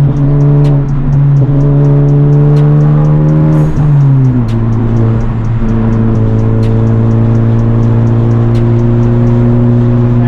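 Turbocharged four-cylinder of a Honda Civic Type R with a catless downpipe and resonator delete, droning loudly while cruising. Its pitch creeps up, drops about four seconds in, then holds steady.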